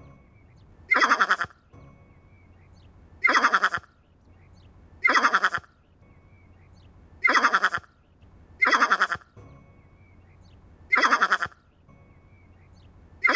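A bleating, quavering animal call repeated seven times, each about half a second long and coming roughly every two seconds.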